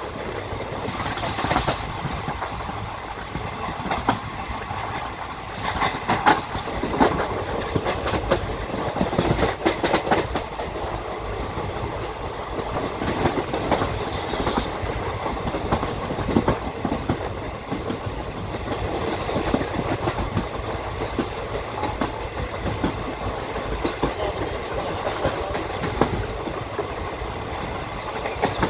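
Indian Railways passenger coach running along the track, heard from alongside the coach: a steady rumble of wheels on rails with clicks and knocks of clickety-clack at uneven intervals.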